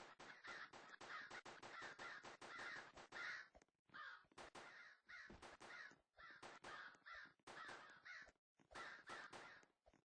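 Crows cawing: harsh calls in quick runs, with short breaks about four, six and eight and a half seconds in.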